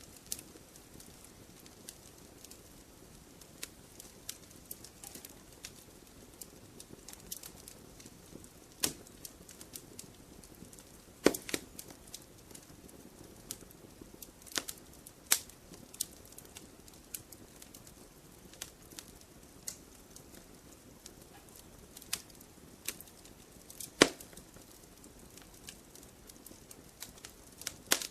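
Wood fire crackling in a fireplace: irregular sharp pops and snaps over a low steady hiss, a few of them much louder than the rest.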